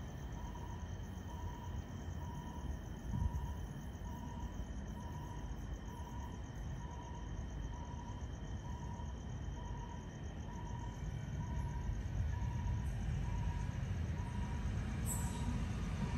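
Railway ambience at night: a steady low rumble that grows louder over the last few seconds as a train approaches, over insects chirring and a faint high beep repeating about once a second. A brief thump about three seconds in.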